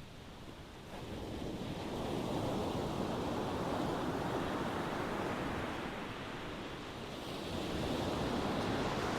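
Ocean waves washing onto a shore: a quieter lull, then a wave swells in about a second in, eases off around seven seconds and a second wave builds near the end.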